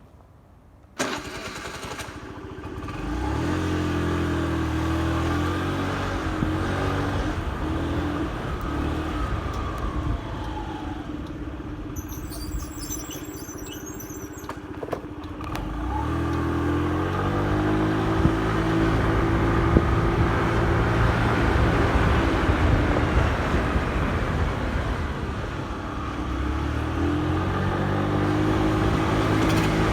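Motorcycle engine pulling away three times, its pitch climbing in steps as it shifts up through the gears, with street traffic noise between.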